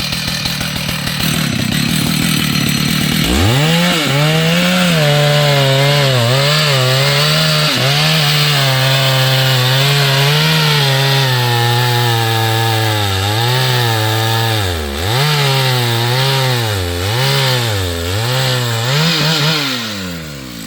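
Two-stroke chainsaw throttled up to full speed a few seconds in and cutting wood, its pitch wavering and dipping repeatedly as the chain bites into the cut. It drops off as the throttle is released near the end.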